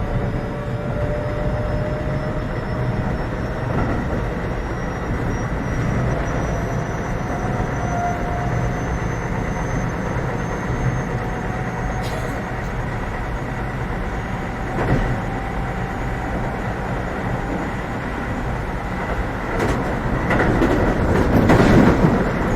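Keio 7000 series electric train running, heard from inside the car: steady wheel and track rumble with the traction motors' whine rising slowly in pitch as the train picks up speed. The rumble grows louder and rougher for a couple of seconds near the end.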